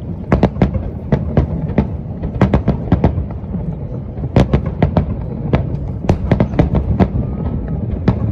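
Aerial fireworks bursting in quick succession: a dense run of sharp cracks, two or three a second, over a continuous low rumble from the shells.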